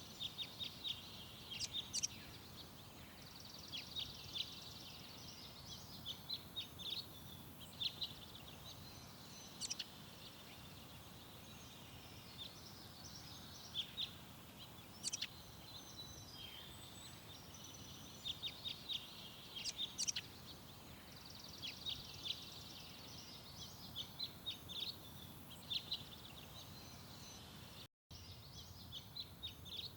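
Garden birds chirping and calling in quick runs of short, high notes, over a steady low background hum of outdoor noise. The sound cuts out for an instant near the end.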